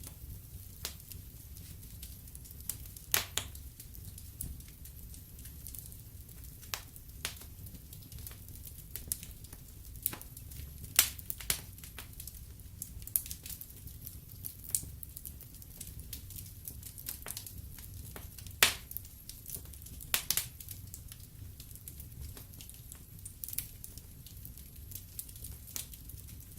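Wood fire crackling in a fireplace: irregular sharp pops and snaps, a few louder ones about three, eleven, eighteen and a half and twenty seconds in, over a low steady rumble of the flames.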